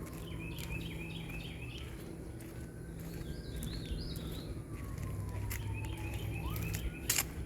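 A bird calling in three bouts of quick repeated chirps, over a low steady hum. A sharp click comes near the end.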